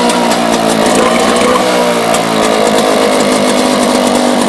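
British Seagull Silver Century outboard motor, a single-cylinder two-stroke, running steadily, its speed wavering slightly.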